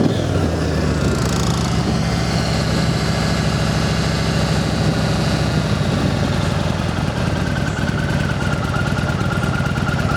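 2007 Yamaha Road Star's air-cooled 1700 cc V-twin running at a steady idle through its factory exhaust, just restarted on part choke because it is not yet warmed up.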